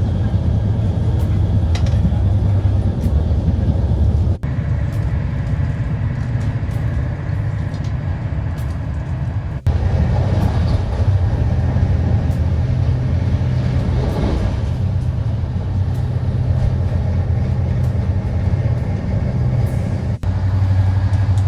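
Steady low rumble and hum of a Trenitalia passenger train running along the line, heard from inside the carriage. It breaks off abruptly for an instant three times, at about four, nine and twenty seconds in.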